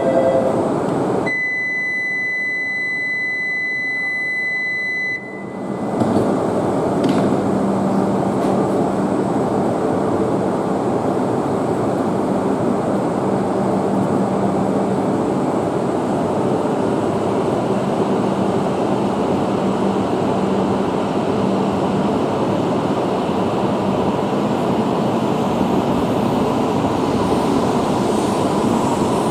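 A steady high electronic beep sounds for about four seconds, then a Tohoku Shinkansen train runs along the platform with a loud, steady rush of noise and a low hum that fades out after about twenty seconds.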